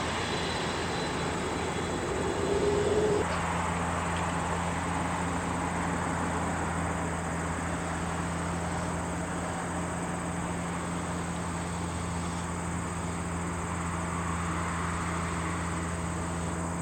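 An engine running steadily under a constant low hum, with a brief louder stretch and a tone two to three seconds in.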